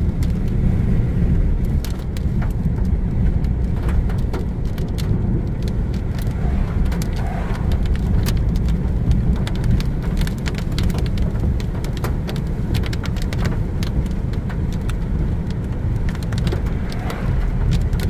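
Raindrops striking a moving car's windshield and roof, heard from inside the cabin as many sharp, irregular ticks over a steady low rumble of road and engine noise.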